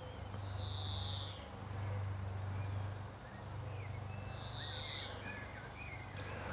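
Quiet outdoor ambience with faint bird calls: two drawn-out high calls, one about half a second in and one about four seconds in, and a few short chirps, over a steady low hum.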